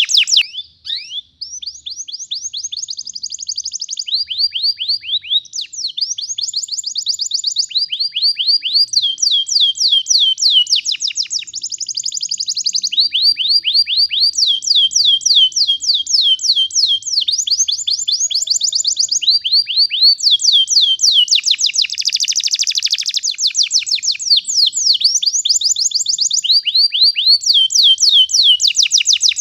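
Domestic canary singing a long rolling song: fast trills of one repeated sweeping note after another, switching to a new note every second or two. There is a brief break about a second in.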